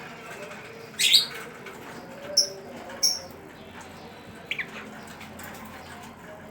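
A young lovebird about two months old giving four short, sharp chirps, the first the loudest and the last faint, from a chick still learning its chattering song.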